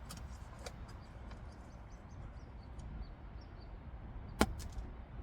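Low, steady background rumble with a few light clicks, and one sharp click about four and a half seconds in.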